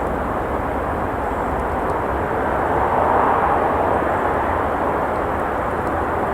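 Steady hiss of road traffic, swelling for a moment about halfway as a vehicle passes.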